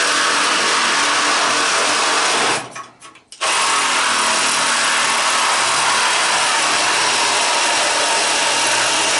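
Power tool running steadily at full speed in two long runs. It stops about two and a half seconds in and starts again under a second later.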